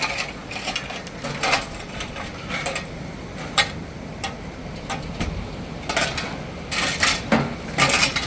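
Irregular knocks and clinks of hard objects being handled and set down, a few a second, with several sharper strikes near the end.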